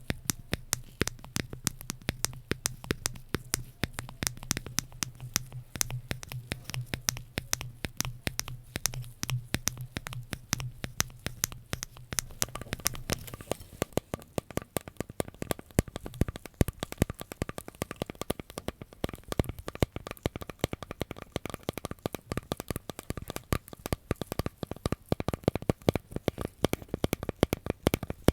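Rapid, irregular crackling clicks, several a second, from ASMR trigger objects handled close to the microphone. A low hum underneath stops about halfway through, and a faint steady tone continues after it.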